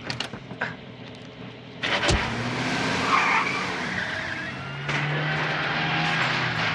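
Car sound effects: an engine running and tyres skidding. A sharp bang comes about two seconds in after a quieter stretch, and the engine tone strengthens near five seconds.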